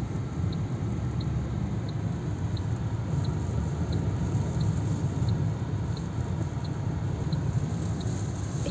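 Steady low rumble of a car in a sandstorm, with a faint regular tick about one and a half times a second.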